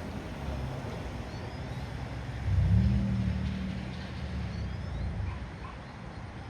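Engine of a hi-rail Toyota 4Runner running as it pulls away along the railroad tracks, revving up about two and a half seconds in and then easing off.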